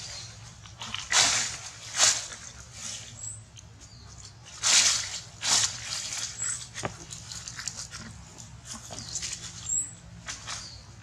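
Baby macaque crying in a series of short, harsh, high-pitched bursts spaced a second or more apart: distress cries of a frightened infant monkey.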